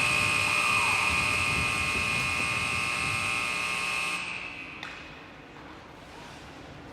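Arena's end-of-game buzzer sounding one steady, high-pitched tone, marking the end of the game. It stops about four seconds in, with a short echo through the rink, leaving faint arena background.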